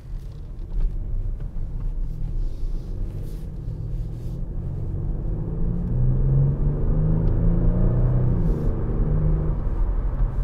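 Kia Stinger GT's 3.3-litre twin-turbo V6 running as the car drives, a low engine note that grows louder about six seconds in with a slight rise in pitch.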